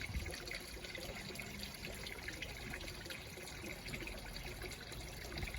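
Water trickling and splashing steadily from a garden fish pond's waterfall.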